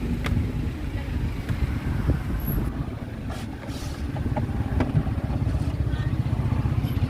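Steady low outdoor rumble with faint background voices and a few small clicks and clatters.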